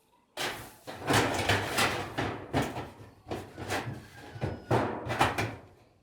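A series of knocks and thuds, roughly one or two a second, starting about half a second in.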